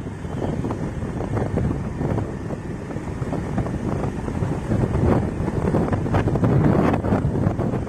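Wind buffeting and rumbling on the microphone of a moving Aprilia SR150 scooter, mixed with the scooter's engine and road noise, in irregular gusts.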